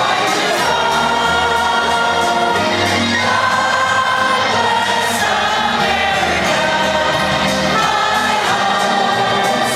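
Symphony orchestra playing while a large crowd sings along, the voices together sounding like a choir.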